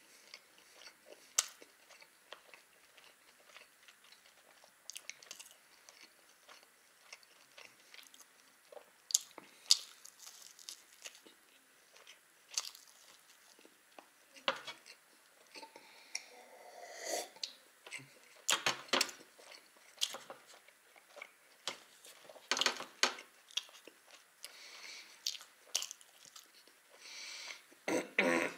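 Mouth chewing and biting into a soft baked pie: a string of irregular, short mouth clicks, with louder clusters now and then.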